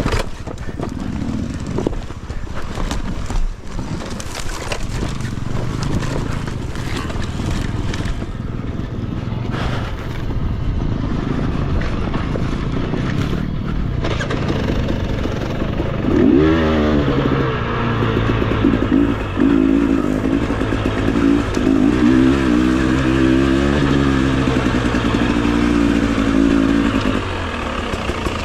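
Enduro dirt bike's engine running under way, with many sharp knocks and clatter. From about halfway, the engine revs up and down again and again.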